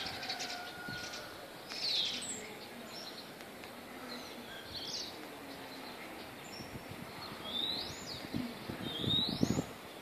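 Birds calling: a few separate high calls, each sweeping in pitch (one falling, others rising), spaced a couple of seconds apart over a faint steady hiss. A few low knocks near the end.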